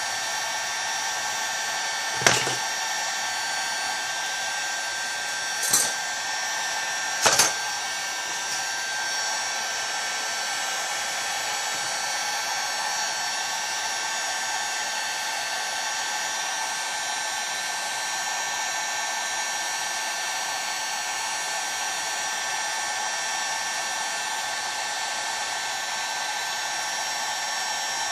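Heat gun running steadily with a fan whine, heating a chainsaw crankcase so the crankshaft bearing and oil seal can be pressed in. Three short knocks sound about 2, 6 and 7 seconds in.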